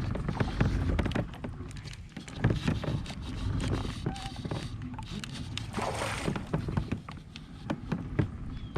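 Clicks and knocks of gear being handled on a kayak, over a low rumble, with a brief burst of noise like a splash a little before six seconds in.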